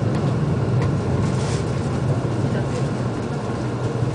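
Interior running noise of a Shinkansen trainset heard inside the passenger cabin: a steady low hum and rumble with a hiss above it, easing slightly as the train nears the terminus.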